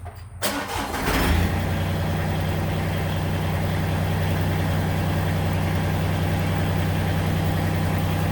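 Massey Ferguson GC1710 subcompact tractor's diesel engine starting about half a second in, catching within a second and settling into a steady idle.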